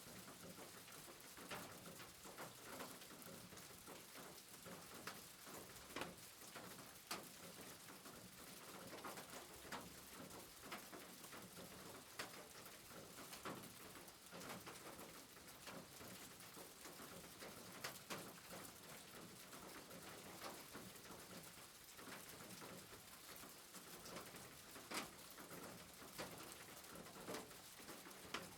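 Faint steady rain, an even hiss of falling water with scattered drops tapping, a few of them louder and closer.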